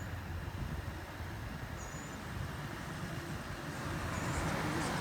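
Steady low vehicle rumble that grows louder about three and a half seconds in.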